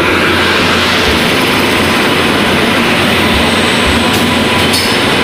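Indian Railways WAP-7 electric locomotive drawing a train past close along a platform: a loud, steady rushing noise as the locomotive and then the first coaches roll by.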